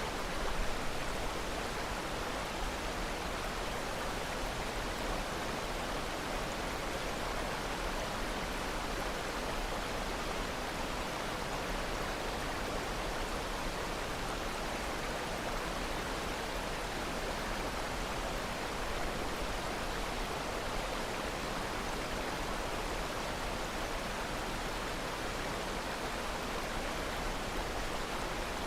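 Steady, even rushing of running water with no break or change in level.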